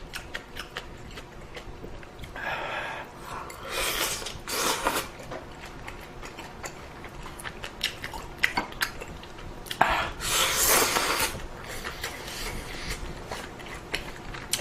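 A person eating ramyeon noodles close to the microphone: chewing with scattered sharp clicks of utensils on the bowl, and a few short noisy rushes, the longest about ten seconds in.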